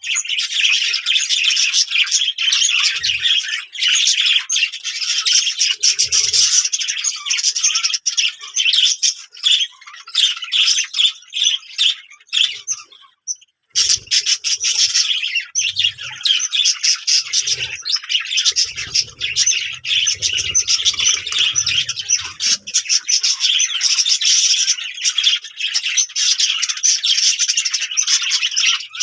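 Many small birds chirping and tweeting together in a dense, continuous chatter, broken by a short pause about halfway through.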